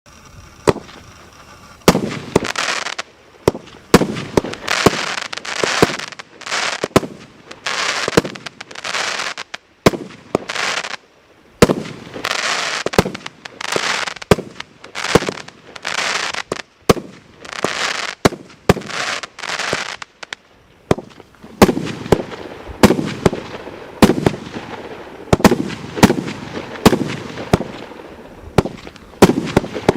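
A 38-shot, 1–1.2-inch Joker Fireworks 'Dragon' firework cake (JF C18) firing: a sharp bang about every second, each followed by a hissing, crackling burst that trails off. The shots come closer together and deeper in the last third.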